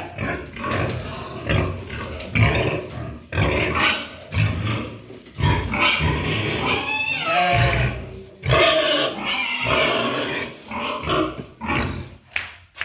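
Pigs grunting in irregular bursts while being fed, with a higher drawn-out call about seven seconds in.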